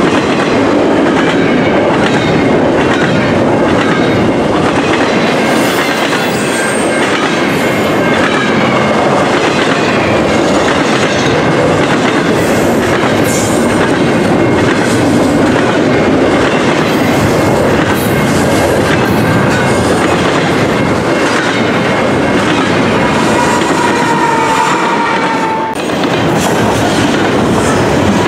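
Double-stack intermodal well cars of a long freight train rolling past close by: a steady loud rumble and clatter of steel wheels on the rails. Thin wheel squeals come and go, most noticeable a few seconds before the end.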